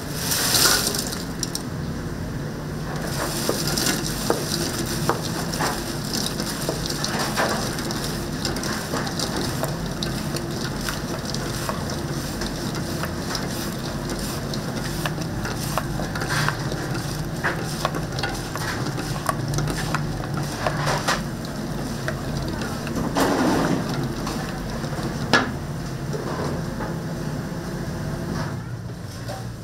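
Dakgangjeong cooking: a steady sizzle and crackle of a large kitchen pot at the boil, with scattered pops, a louder burst about a second in and a swell around 23 seconds in, over a steady low hum.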